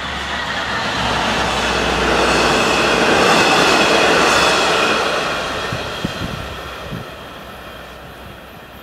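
Locomotive-hauled train of double-deck passenger coaches passing at speed: the rumble swells to a peak a few seconds in and then fades as it moves away. A low steady hum runs under the first half, a high ringing from the wheels and rails rides on top, and a few short clicks come near the end.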